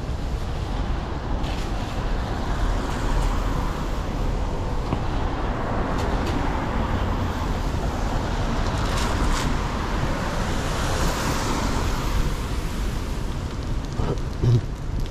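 Street traffic on a wet city road: steady tyre hiss and engine noise, swelling as vehicles pass through the middle, with a short low thump near the end.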